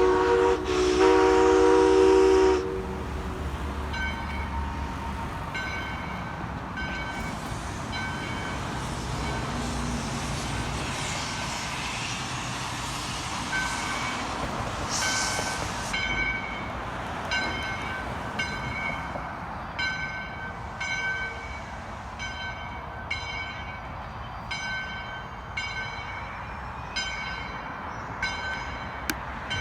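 A locomotive whistle sounds a low chord for about two and a half seconds, then the locomotive bell rings in steady strokes roughly once a second, over the rumble of the train running into the station.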